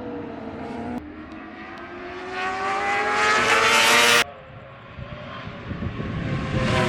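1000 cc racing motorcycle engines accelerating on track, pitch climbing steadily to a loud, high-revving peak about four seconds in, where the sound cuts off abruptly; a second rising run of engine note builds toward the end.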